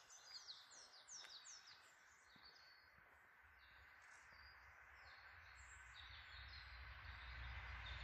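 Faint birdsong: a quick run of falling chirps in the first two seconds, then scattered calls, over a steady background hiss. A low rumble builds in the second half.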